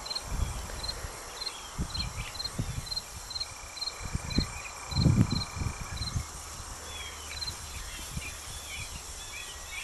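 Insects chirping in an even rhythm of about two chirps a second, with scattered low thumps and bumps, the loudest about five seconds in.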